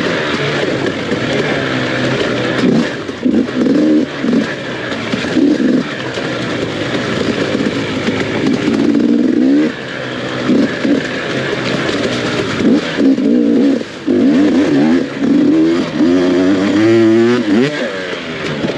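Off-road racing motorcycle engine revving hard and easing off again and again, its pitch climbing and falling with each burst of throttle, with brief drops as the throttle is chopped.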